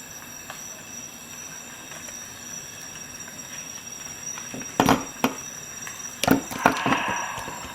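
Sharp clicks and knocks from handling a Victorinox Swisschamp XLT Swiss Army knife: a few clicks about five seconds in, then a second flurry of knocks and rattling a second later, over a steady hiss.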